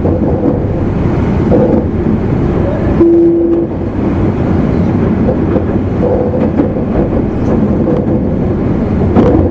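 Running noise inside a motor car of an E259 series Narita Express train: a steady rumble of wheels and running gear. A brief steady tone sounds for under a second about three seconds in.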